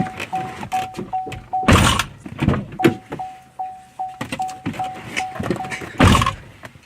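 A car's door-open warning chime beeping at about three beeps a second, with two heavy thuds of a car door shutting, about two seconds in and near the end.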